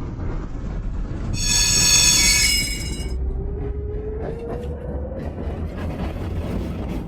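Tatra T3 tram running with a steady low rumble, its wheels squealing high-pitched for about two seconds starting a second in. A slowly rising whine follows as it gathers speed, with faint clicks of the wheels over the track.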